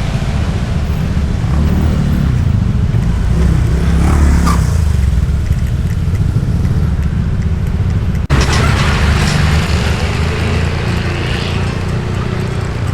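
Motorbike riding noise: a steady, loud low rumble of engine, road and rushing air, with traffic around. It cuts out for an instant about eight seconds in.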